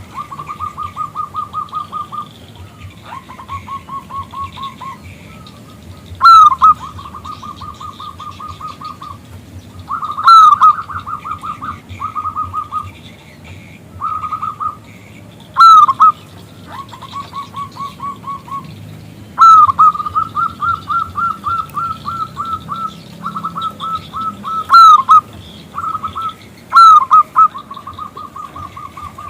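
Zebra dove (perkutut) singing its cooing song over and over. Each phrase opens with a loud rising note and runs into a quick string of short, even coos, about seven a second. A new phrase starts every three to five seconds.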